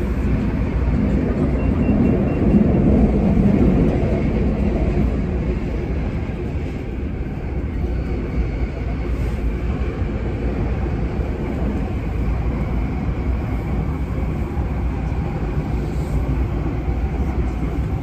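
Hong Kong Airport Express train running, heard from inside the passenger carriage: a steady deep rumble with a hiss of rail and air noise, a little louder for a few seconds near the start.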